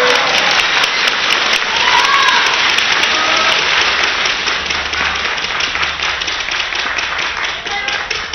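Crowd applauding, with a few voices calling out, the applause easing off slightly near the end.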